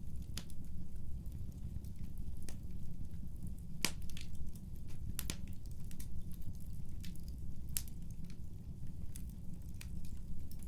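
Wood fire burning in a fireplace: a steady low rumble with irregular sharp crackles and pops, the loudest a little under four seconds in and again just after five.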